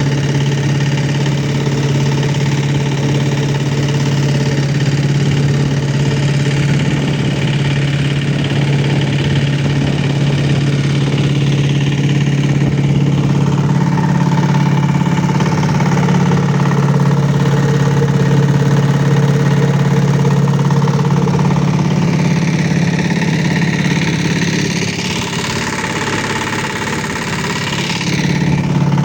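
Boat engine running steadily at a low, even hum, dipping slightly in loudness a few seconds before the end.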